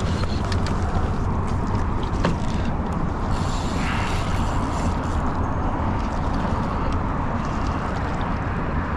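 Steady low rumble of wind buffeting the microphone on an open kayak, with a few faint clicks.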